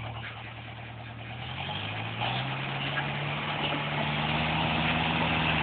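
Forest tractor's engine running, its speed rising over the first three or four seconds and then holding steady at the higher pitch.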